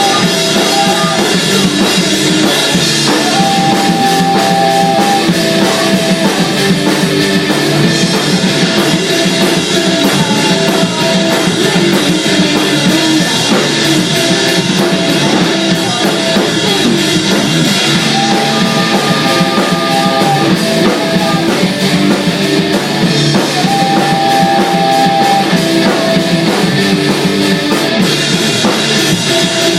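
Rock band playing with a drum kit and guitar, loud and steady, with a short melodic figure recurring every few seconds.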